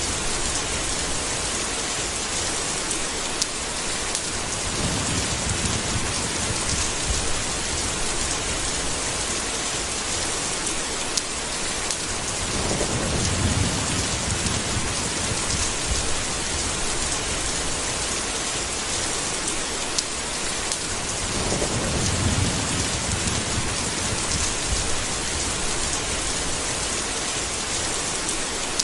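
Steady heavy rain with low thunder rumbling three times, each swelling and fading over a couple of seconds, about every eight or nine seconds.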